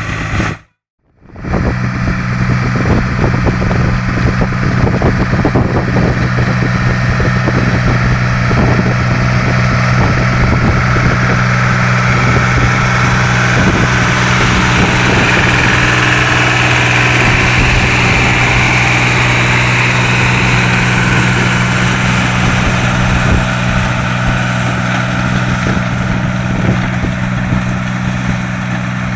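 BJR Samurai 60 articulated tractor engine running at a steady speed while driving a rotovator, with wind buffeting the microphone. The sound cuts out completely for about a second near the start.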